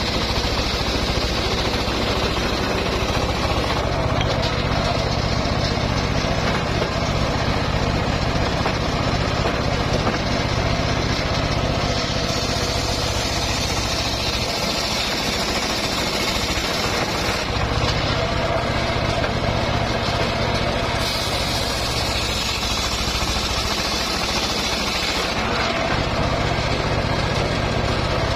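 Homemade engine-driven circular sawmill running steadily through mahogany. Its sound brightens and eases in stretches of several seconds as the blade cuts the log.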